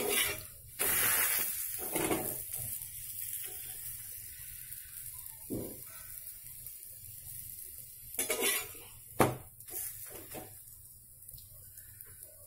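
Paneer paratha sizzling in oil on a hot iron tawa as it is turned with a spatula. The sizzle is loudest about a second in, then fades to a soft steady hiss, with a few knocks of the spatula against the pan in the second half.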